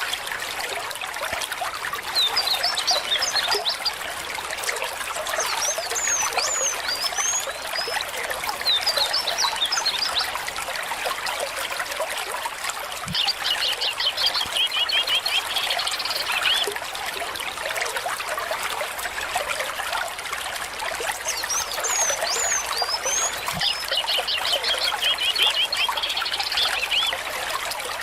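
Stream water trickling and babbling steadily. Over it a songbird sings short phrases of quick high chirps and trills, about six times, with a gap in the middle.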